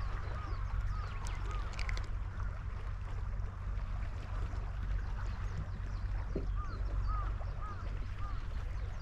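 Steady low wind rumble on the microphone, with short, high, arched animal calls repeating now and then, several close together near the middle.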